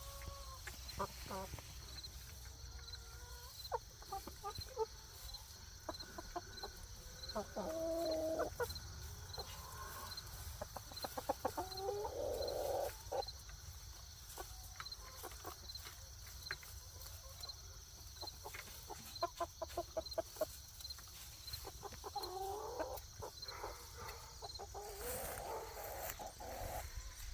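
Chickens clucking, with scattered short calls and a quick run of rapid clucks about two-thirds of the way through.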